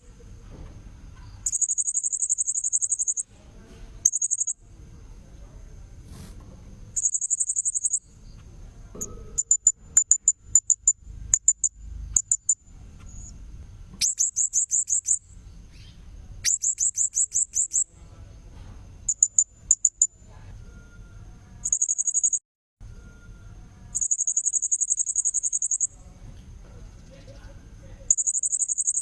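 Blue-crowned hanging parrot (serindit) calling: shrill, very high buzzy notes in bursts of one to two seconds, alternating with quick runs of short sharp chirps. A faint steady high-pitched tone runs underneath.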